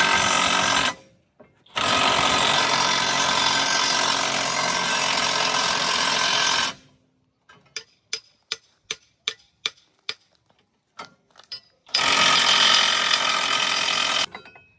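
Loud, steady machinery noise that starts and stops abruptly three times. In the quiet gap comes a run of about a dozen sharp metallic clicks, roughly three a second, like a ratchet or a mechanism turning over.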